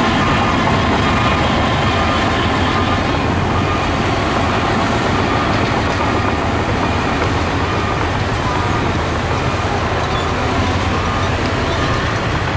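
Diesel engines of heavy earthmoving machinery running steadily and loudly, a continuous engine sound without breaks.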